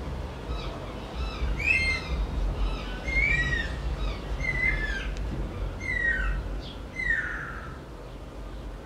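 A bird calling repeatedly: five short calls that curve downward in pitch, about one every second and a half, over a steady low rumble.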